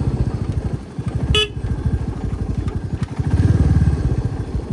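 Motorcycle engine running with an even low beat, a short horn beep about a second and a half in, and the engine growing louder for a moment around three and a half seconds in.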